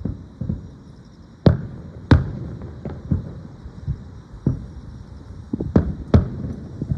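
Aerial fireworks bursting in a display: a string of deep booms and sharp cracks. The loudest come about a second and a half and two seconds in, and again twice near the end, with many smaller thuds between them.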